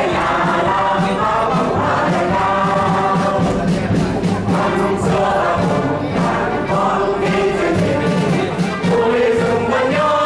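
Music with a choir of voices singing together, held notes running without a break.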